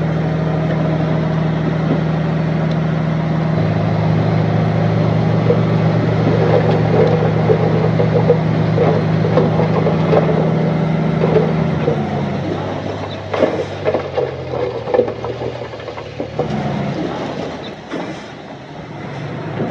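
Diesel engine of earthmoving machinery running steadily, with rattling and clatter over it. About twelve seconds in, the engine note drops, and a string of clanks and knocks follows.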